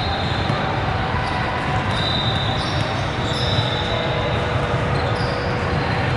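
Noise of a busy indoor sports hall: balls striking and bouncing, with a few short high squeaks and a blur of distant voices.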